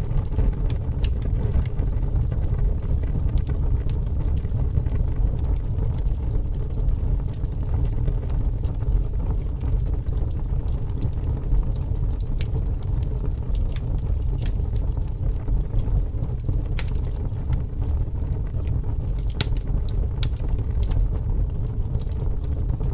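Fire burning with a steady low roar and scattered crackles and pops, two of them sharper in the second half.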